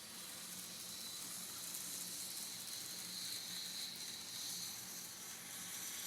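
HO-scale model trains rolling around the layout: a faint, steady high hiss of wheels on track with a low hum underneath, the hiss swelling briefly about halfway through.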